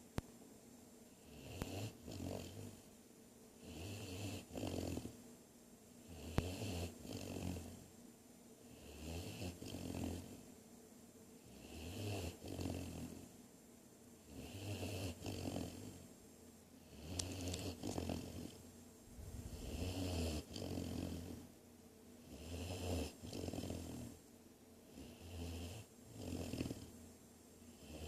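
Great Dane puppy snoring, one snore on each breath about every two and a half seconds.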